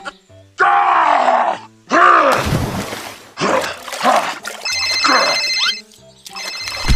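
Cartoon-style sound effects over light background music: several loud voice-like grunts and groans that swoop up and down in pitch, and a bright twinkling chime from about 5 to 6 seconds in.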